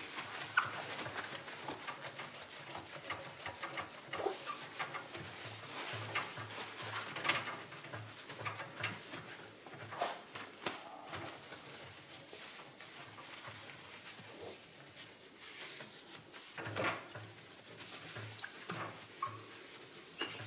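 Cloth wiping glass cleaner over the glass door of a fireplace insert: faint rubbing strokes with scattered light knocks and squeaks.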